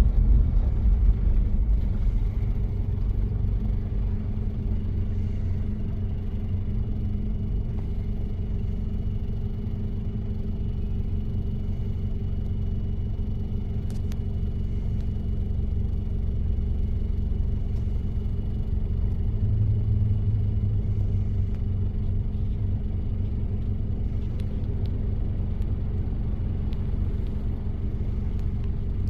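1993 Toyota Prado's diesel engine running at a steady speed while driving, with a low rumble.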